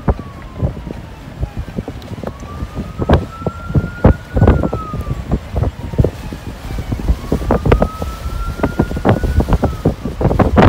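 Storm-force blizzard gusts buffeting the vehicle and microphone in irregular heavy thumps. Behind them an emergency-vehicle siren wails slowly up and down, each rise and fall taking about four to five seconds.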